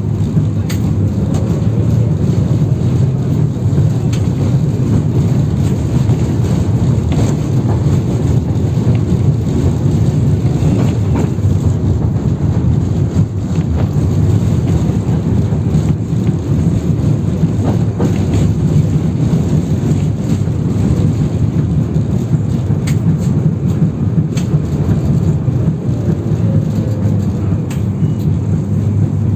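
A 71-608KM tram running between stops, heard from inside the car: a loud, steady rumble of wheels on heavily worn rails, with scattered light clicks. A faint whine rises about a second in and falls away near the end.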